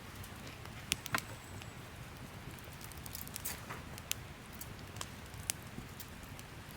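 Wood campfire crackling: scattered sharp pops at irregular times, the two loudest about a second in, over a low steady background.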